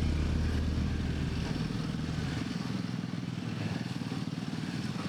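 Motorcycle engine running steadily as it rides, a dense low rumble whose deepest part fades about halfway through.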